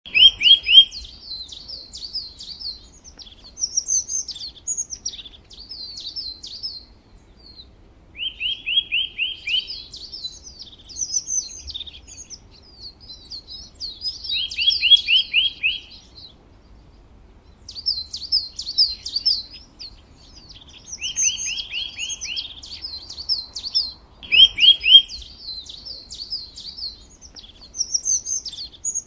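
Songbird singing: high chirping and trilling phrases, each with a quick run of rapid repeated notes, recurring every few seconds with short pauses between.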